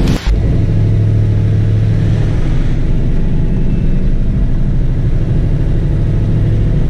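Ford Falcon's 351 Cleveland V8 running at low revs as the car drives, heard from inside the cabin: a steady low engine drone that cuts in just after the start.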